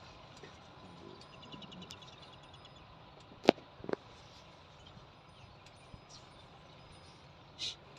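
Quiet outdoor ambience with a fast, faint, high chirping trill about a second in, two sharp clicks about three and a half seconds in, the first the loudest sound, and a brief hiss near the end.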